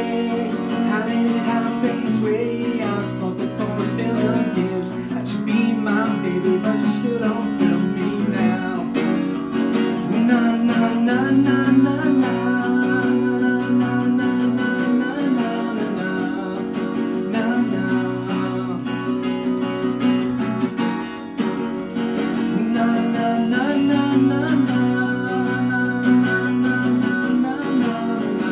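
Solo acoustic guitar being strummed, with a man singing over it.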